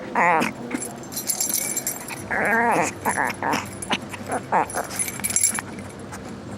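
Dog making wavering, whiny vocal calls while playing, one at the start and a longer one about two and a half seconds in, with bits of light metallic jingling in between.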